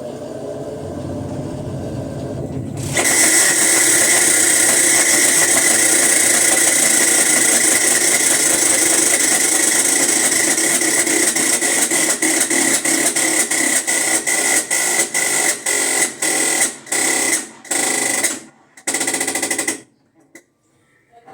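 Electrolux LTE12 washing machine during its spin cycle, making the strange noise it is shown for: a loud, steady rasping whir with a high whine starts about three seconds in. Later it breaks up into separate pulses that come further and further apart, then stops shortly before the end.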